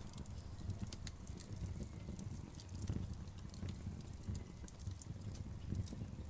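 Burning logs crackling, with many irregular sharp pops and snaps over a low, continuous rumble.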